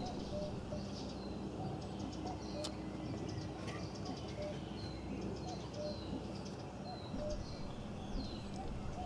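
Wild birds chirping and singing, with short high chirps and whistled notes repeating every second or so over a steady low background hum.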